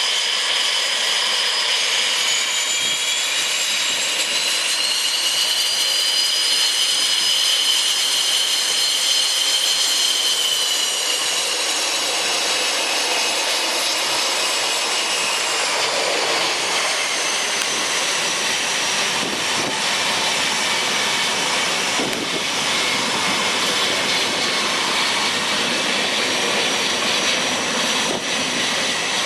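Cessna Citation CJ1's twin turbofan engines whining over a jet roar. The whine rises in pitch in the first few seconds, holds, then slides lower from about ten seconds in.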